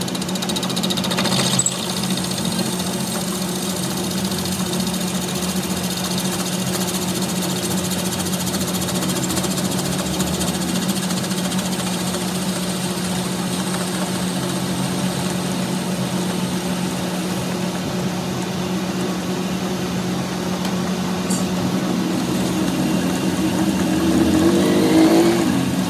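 Workshop machine motor running steadily with a constant hum, with a brief rise and fall in pitch near the end.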